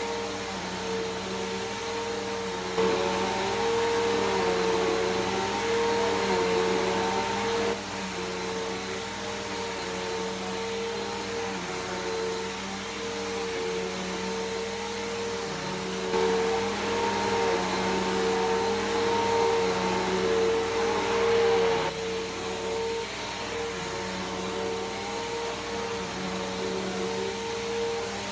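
Bissell PowerForce Helix Turbo upright vacuum cleaner running with a steady motor whine, its pitch wavering slightly and its loudness rising and falling as it is pushed back and forth over a rug.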